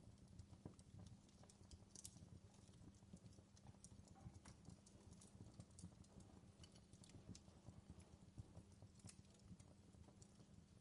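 Campfire crackling faintly: irregular small snaps and pops of burning wood over a low steady rumble.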